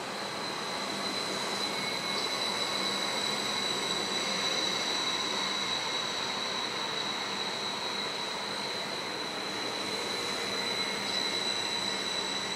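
A long train of new Go-Ahead electric multiple units rolling slowly past, steady wheel-on-rail noise with a high, steady whine over it.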